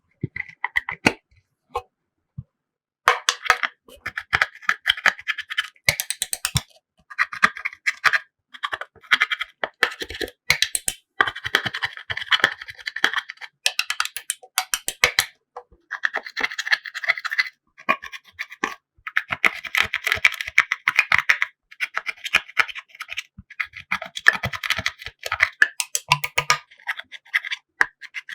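Slime being squished and worked by hand, a dense run of sticky popping and crackling clicks that comes in bursts with short pauses between them.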